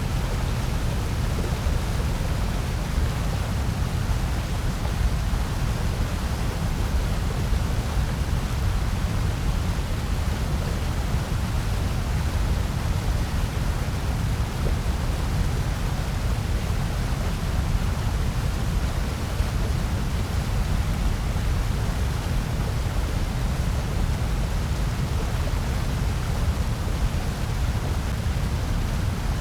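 Steady synthetic noise sold as white noise. It is an unbroken hiss, heaviest in the low rumble below about 200 Hz, with a softer, even hiss over the higher range.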